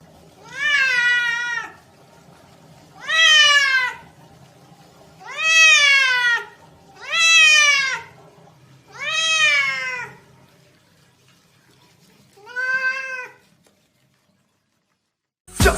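A cat meowing six times, each long meow rising and then falling in pitch, about two seconds apart; the last one is shorter and softer.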